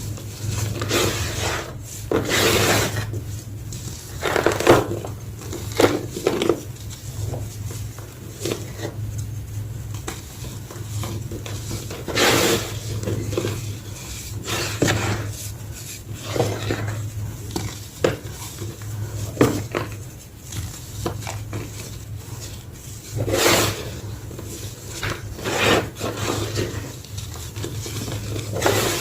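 A small block of gym chalk being crushed, giving irregular crunches and crumbling scrapes, some louder than others.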